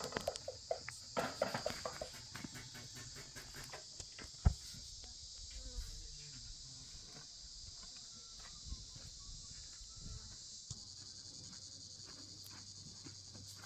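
Steady high-pitched chorus of crickets, with scattered knocks and clatter in the first couple of seconds and one sharp knock about four and a half seconds in.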